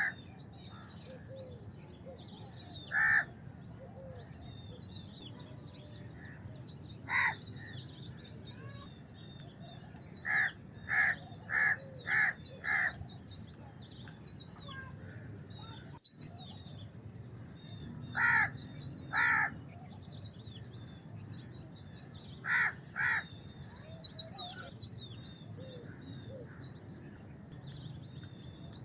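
House crows cawing in short calls: one at a time, a run of five, then pairs. A constant twittering of small birds' high chirps runs underneath.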